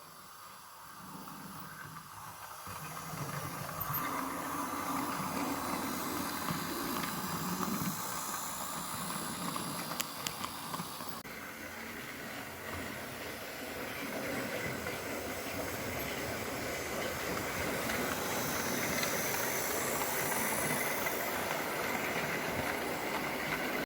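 Märklin H0 model train, a T5 steam locomotive pulling five freight wagons, running on K-track with a steady whirring and rolling noise. The noise grows louder over the first few seconds, and there are a few sharp clicks about ten seconds in.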